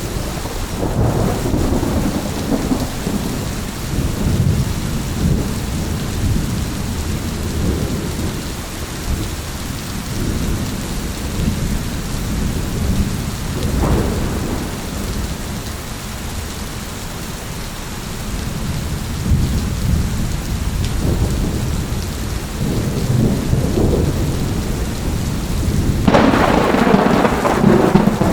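Steady heavy rain with rolling thunder rumbling low throughout, a sharp crack about halfway, and a louder, brighter thunderclap near the end.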